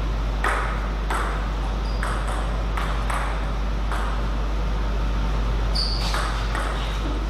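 Table tennis ball clicking off paddles and the table in quick, uneven succession, over a steady low hum.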